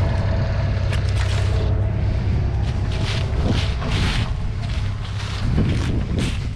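Diesel machinery engine running steadily at a low rumble, with brief rushes of noise in the middle and near the end.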